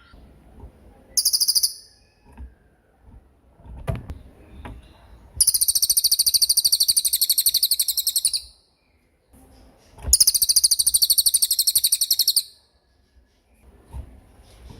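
Small songbird singing very fast, high-pitched trills: a short one about a second in, then two long trills of about three seconds each, the loudest sounds here, separated by a pause. A recorded song of the kind used as masteran to tutor cage birds.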